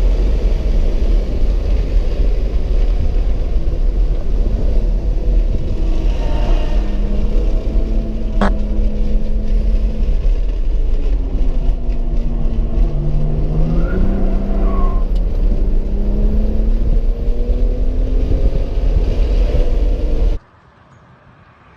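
Car engine running hard on track under heavy wind and road rumble, its pitch climbing and dropping several times with gear changes and braking. The sound cuts off abruptly near the end.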